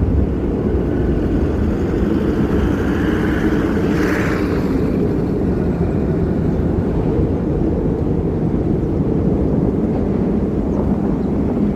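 Storm wind blowing hard across the microphone: a steady, loud low rumble, with a brief rush of higher hiss about four seconds in.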